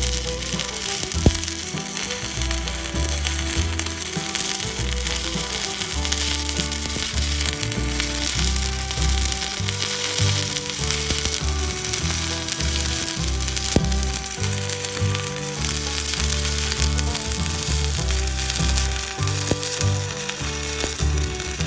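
Stick welding arc crackling and sizzling steadily as the electrode burns, with a sharp pop about a second in and another near the middle. Faint music with a low beat runs underneath.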